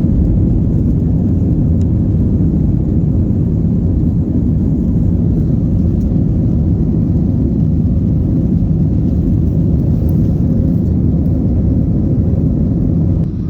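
Steady low rumble of a moving vehicle heard from inside its cabin, with no sharp events, easing off slightly near the end.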